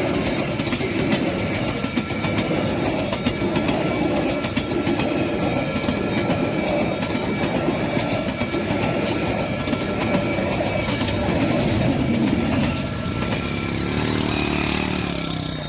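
Vietnamese passenger train rolling past close by, its wheels clacking rapidly over the rail joints with a thin, steady whine above the rumble.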